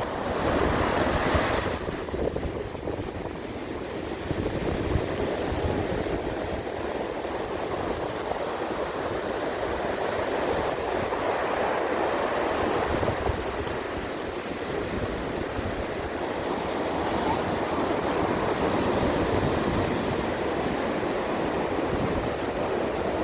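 Ocean surf washing in continuously, a brighter rush of breaking water in the first two seconds, with wind gusting over the microphone in uneven low rumbles.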